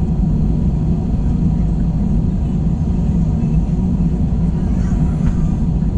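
Steady, loud rumble of an Airbus A321's engines and airflow, heard from inside the passenger cabin.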